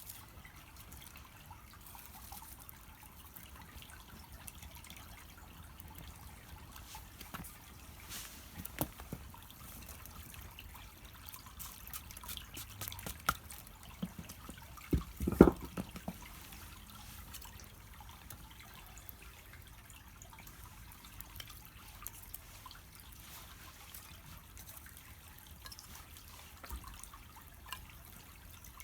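Small wood fire burning on charcoal in a shichirin, crackling with scattered small pops, and one louder knock about halfway.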